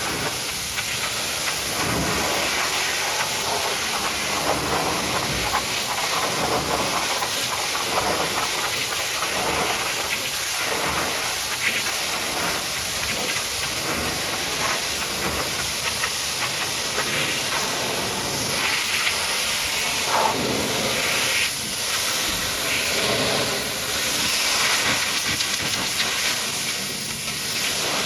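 High-pressure washer jet spraying water, a steady hiss that shifts in texture as the spray moves over the surface.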